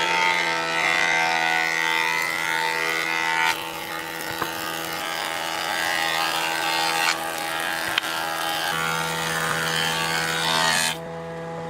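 A woodworking machine's motor running with a steady hum, with loud hissing stretches of cutting that start and stop abruptly, about every three to four seconds.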